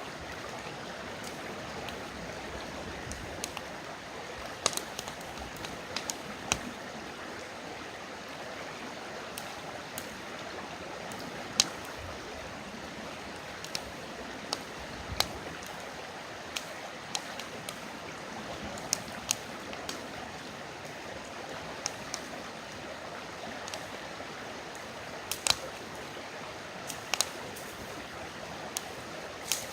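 Steady rush of a flowing river with a wood campfire crackling over it, sharp pops and snaps coming irregularly.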